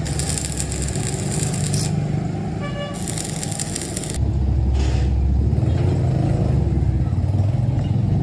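Machinery running with a steady low drone, broken by two bursts of hiss in the first half; about four seconds in the drone grows louder.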